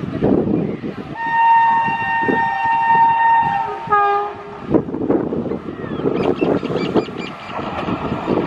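Indian Railways locomotive horn: one long steady blast of about two and a half seconds starting about a second in, then a short, lower blast. The rumble and rhythmic clatter of the passing train's wheels follow.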